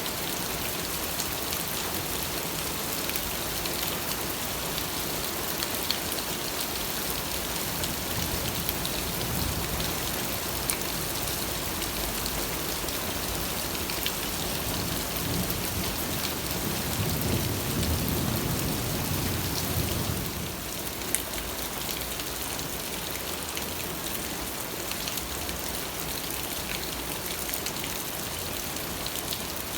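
Steady rain falling on a surface, with scattered individual drops. A low rumble of thunder swells and fades about halfway through.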